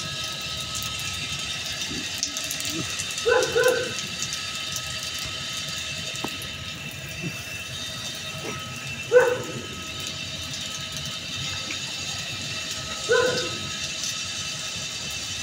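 Puppies giving three short barks or yips while play-fighting, spaced several seconds apart, over a steady background hum.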